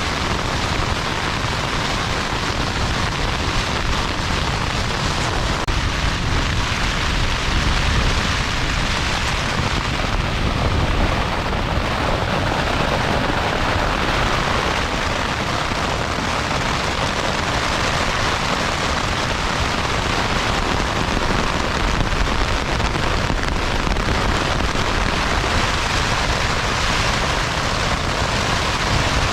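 Heavy rain and strong wind: a steady rushing noise with a deep rumble underneath.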